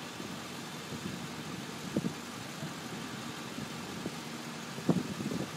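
An engine idling steadily, with a couple of brief knocks, one about two seconds in and a louder one near the end.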